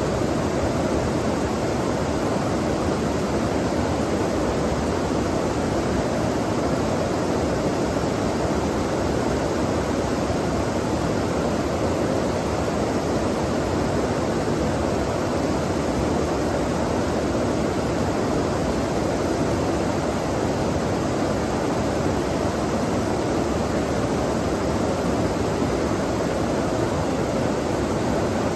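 Flowing water of a stream rushing steadily and evenly, with no breaks or separate events.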